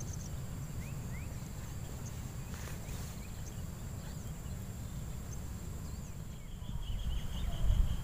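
Outdoor riverside ambience: a steady low rumble, with scattered short rising bird chirps and a quick trill of repeated notes near the end.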